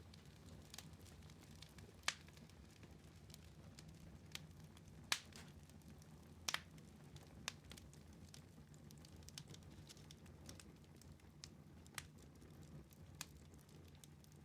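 Wood fire in a fireplace crackling quietly, with scattered sharp pops from the burning logs, the loudest about 2, 5 and 6½ seconds in, over a low steady rumble.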